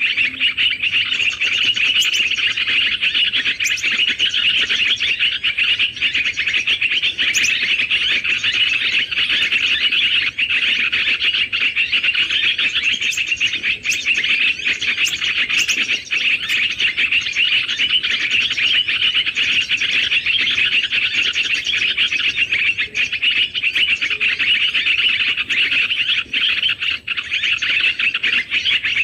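Many small birds twittering and chattering together in a dense, unbroken chorus of rapid high chirps.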